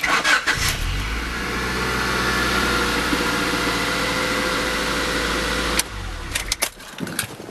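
1994 Honda Accord's four-cylinder engine starting, now that the alarm's starter-kill immobilizer is disarmed: it catches within about a second and idles steadily, then stops abruptly about six seconds in, followed by a few clicks.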